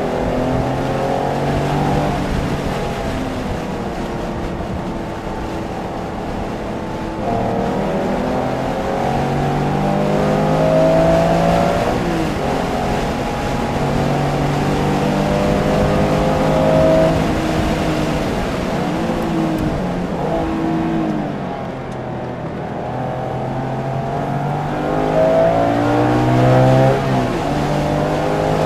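Porsche engine being driven hard on a race track, its pitch climbing repeatedly under acceleration and dropping suddenly at gear changes and braking, several times over.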